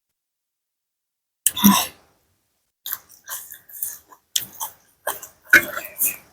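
Close-up chewing and biting of papaya salad with pickled seafood, in irregular short bursts that start about a second and a half in.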